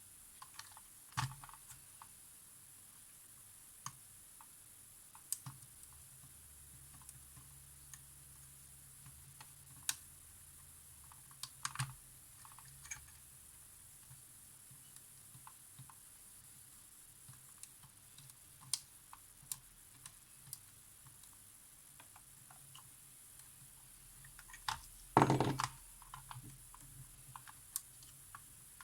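Scattered small clicks and light taps of tools and small parts being handled on a workbench, with a louder cluster of clatter about 25 seconds in.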